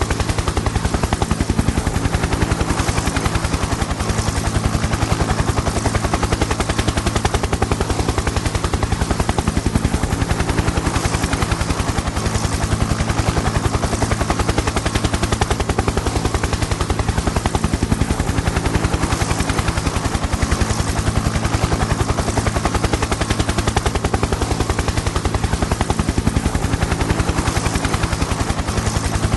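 Helicopter in steady flight: a fast, even chopping of the rotor blades over a steady low drone.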